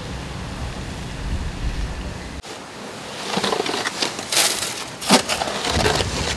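Pond-side ambience with wind buffeting the microphone as a low rumble, which cuts off abruptly about two and a half seconds in. It is followed by irregular scratchy, splashy noise bursts.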